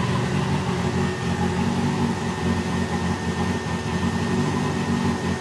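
Nissan S13 drift car's engine idling steadily on its first start-up, heard from inside the caged cabin.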